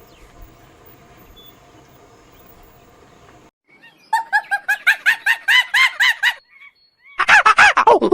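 Faint outdoor background, then after a cut a bird gives two rapid runs of short repeated calls, about five a second, the second run louder.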